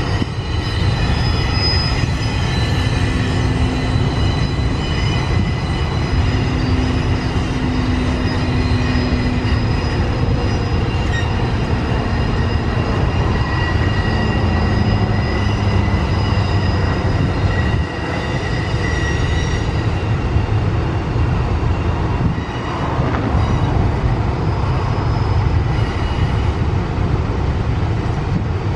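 Empty double-stack container cars of a freight train rolling past with a steady low rumble on the rails. Several high, held wheel squeals ring over it for about the first twenty seconds, then fade.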